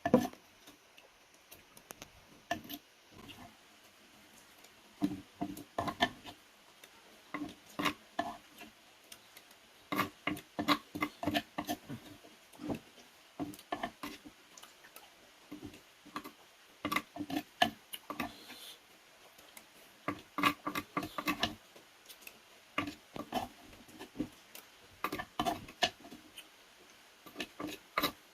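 Close-miked eating sounds: wet chewing and mouth clicks in quick clusters of several a second, with short pauses between.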